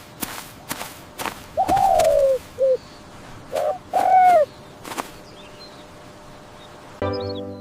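A bird calls several times. There is a drawn-out arched call that falls at the end, a short call, then two more calls, with a few sharp clicks between. Music comes in near the end.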